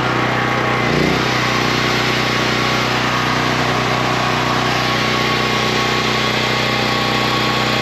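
A motor running steadily and loudly, with a dense hiss over it and a brief dip in pitch about a second in.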